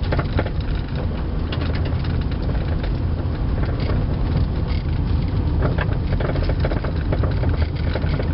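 1997 Toyota Avalon driving on a gravel road, heard from inside the cabin: a steady low rumble with scattered small ticks, carrying a "grr" noise from the suspension. The owner thinks it sounds almost like a wheel bearing, or a CV axle coming apart.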